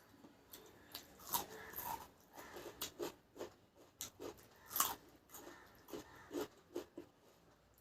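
Close-up chewing and wet lip-smacking of someone eating rice with curry: a string of irregular short smacks and clicks, loudest twice.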